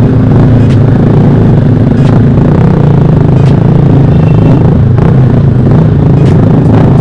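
Motorcycle engine and loud exhaust running at steady, low revs, with no revving.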